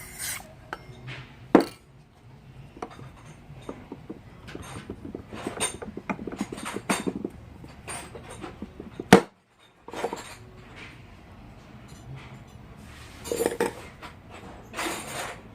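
Metal parts of a car air-conditioning compressor clinking and knocking as its magnetic clutch and pulley are fitted by hand, with two sharper metal strikes, about a second and a half in and about nine seconds in.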